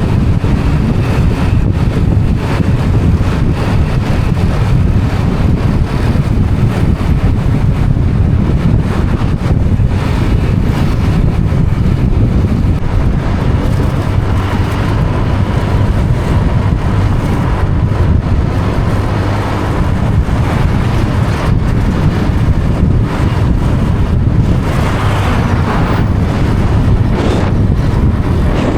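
Wind buffeting the microphone while riding a Honda Click 125 scooter on the road, with the scooter's engine and road noise beneath. The noise is loud and steady throughout.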